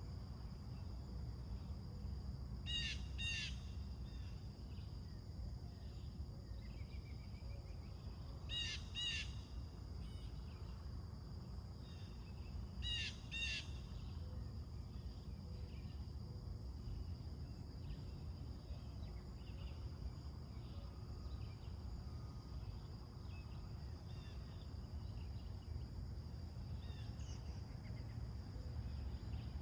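Outdoor morning birdsong: a bird gives harsh, caw-like calls in pairs, three pairs in the first half. Fainter chirps from other birds follow, over a steady high-pitched drone and a low, constant background rumble.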